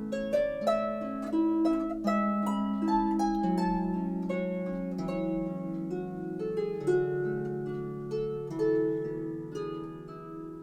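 Solo harp music: plucked notes ringing over one another in a gentle flowing line.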